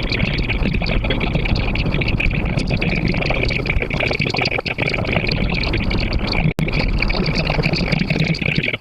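Sped-up car driving noise: a dense, steady hiss and rumble of road and water, with a brief sharp break about six and a half seconds in.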